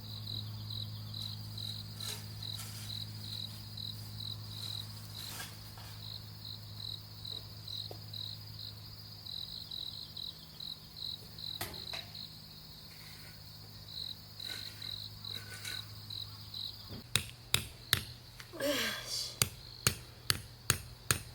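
Crickets chirping in a steady pulsing rhythm, about two or three chirps a second, over a low steady hum. Near the end a hammer starts striking, sharp blows about twice a second.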